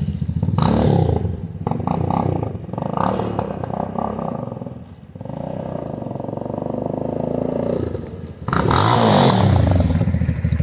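A 250 cc motorcycle engine running and being revved several times, with a steadier stretch in the middle and a long, strong rev near the end.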